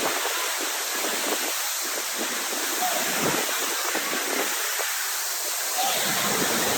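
Steady rush of a waterfall, close by.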